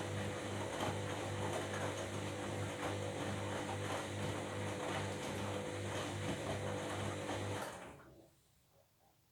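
Washing machine running, its motor humming steadily with faint regular clicks as the drum turns, then winding down and stopping about eight seconds in.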